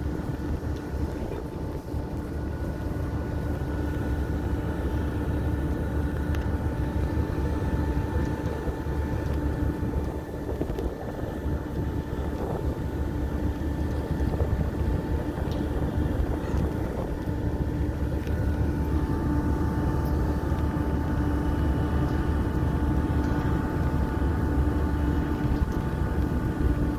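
An engine running steadily: a constant drone with a steady hum over a low rumble, a little louder in the second half.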